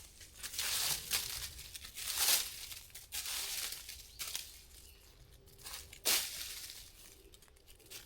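Rustling and crinkling handling sounds, like fabric or plastic being moved and crumpled, in a series of separate swishes.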